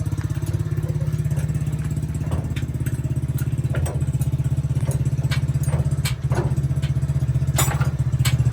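Heavy truck engine idling steadily with an even, fast pulse, with scattered light metallic clicks and clatter over it.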